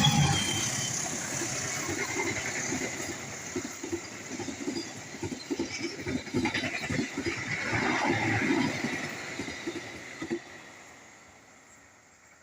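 Express train passing through a station at speed: a dense run of wheel knocks over the rail joints with a steady rolling rumble, the tail of its horn dying away at the very start. The noise fades steadily over the last couple of seconds as the train moves off.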